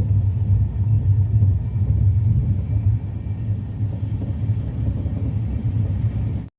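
Passenger train running, a steady low rumble that cuts off suddenly near the end.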